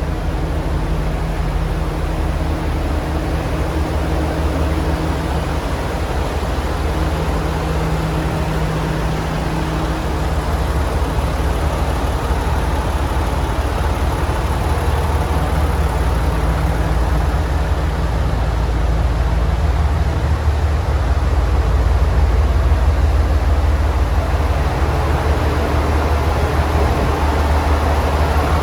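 Diesel railcar running, a steady low engine rumble with a hum that fades into a denser rumble as the sound slowly swells.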